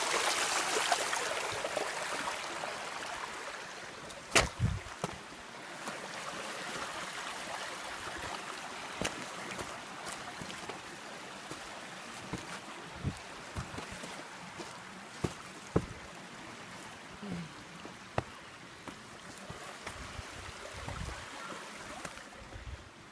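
Creek water running, fading over the first few seconds, then faint running water under scattered footsteps and snaps on the trail, with a sharp knock about four seconds in and another near the middle.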